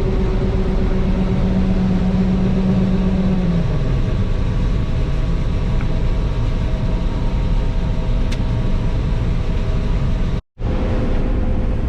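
Combine running steadily while harvesting soybeans. A held tone in its drone drops in pitch about three and a half seconds in, and the sound breaks off for a moment near the end.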